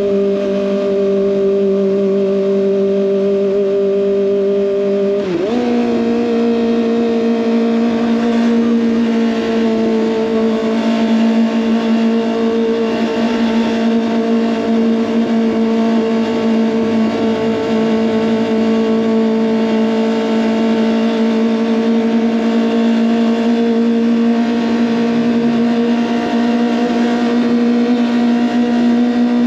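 Kawasaki ZX25R 250 cc inline-four running through an SC-Project exhaust, held at steady high revs. About five seconds in, the revs dip briefly, then settle at a higher, steady pitch for the rest of the stretch.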